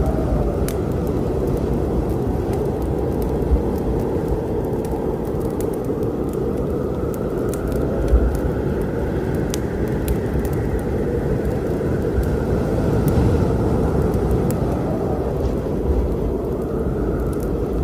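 Storm ambience: a steady deep rumble with a faint wavering whistle, overlaid by scattered sharp pops and crackles of a wood fire burning.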